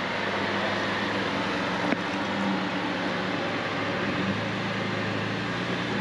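Off-road vehicle engine running steadily at low speed, with a single sharp click about two seconds in.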